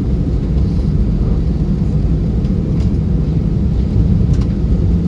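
Steady low rumble inside the cabin of an Airbus A320-212 on the ground just after landing: its CFM56 engines and the airframe rolling along the runway or taxiway.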